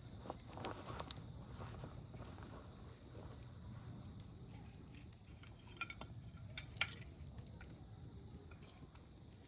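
Wood campfire crackling, with scattered sharp pops of burning logs, the loudest a little before the end. Insects chirp faintly in an even pulse.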